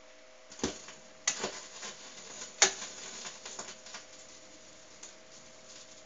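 Automatic record changer of a National SS 8000 stereo cycling: a run of mechanical clicks and clunks as the changer works, the loudest knock about two and a half seconds in, over a faint steady hum before playback starts.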